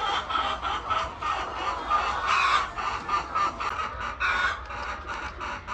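A flock of chickens clucking, many short calls overlapping in quick succession.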